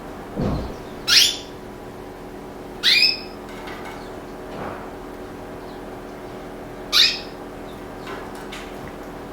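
Pet canary giving three short, sharp calls a few seconds apart, each sweeping steeply down in pitch, over a steady low hum. A dull thump comes just before the first call.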